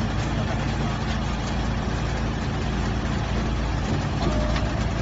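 55 kW wood chipper running with a steady low drone.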